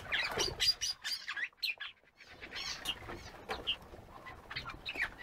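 Aviary birds chirping: short, high chirps in quick bursts, with a brief lull between about one and two seconds in.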